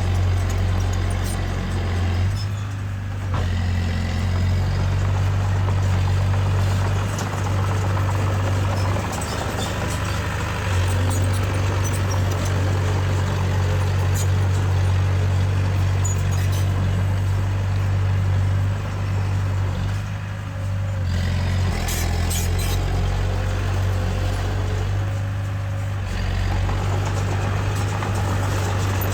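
Diesel engine of heavy earthmoving machinery running steadily under work, its note easing briefly a few times. Scattered light clicks sound over it.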